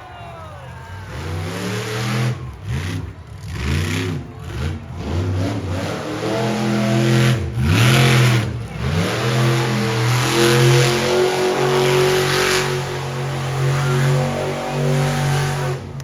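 Monster truck engine revving hard, its pitch swinging up and down several times in quick swells, then held at high revs with short dips through the second half.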